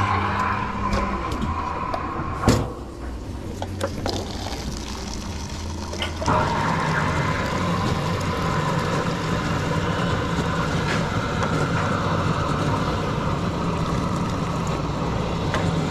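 Steady mechanical hum of running equipment. A sharp click comes about two and a half seconds in, after which the hum drops away. The hum comes back about six seconds in and then runs on steadily.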